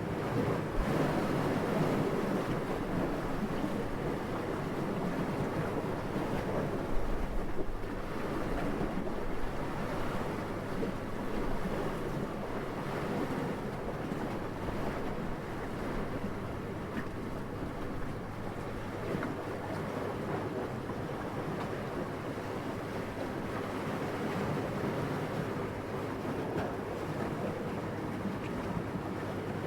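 Steady wind rushing in gentle swells, an even noise without tones, a little stronger near the start and again about seven seconds in.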